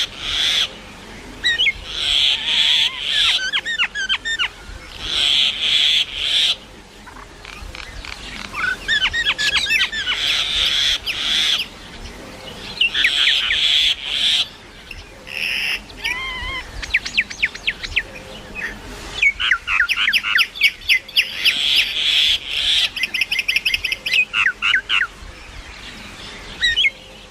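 Common myna calling in a long, varied run of harsh squawks, whistles and fast chattering notes, in bouts of a second or two with short pauses between.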